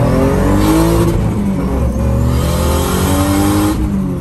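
Turbocharged 2JZ-GTE inline-six in a third-gen Camaro accelerating hard, heard inside the cabin. The engine pitch climbs, drops at a gear change a little over a second in, climbs again through the next gear, then falls as the throttle is lifted near the end.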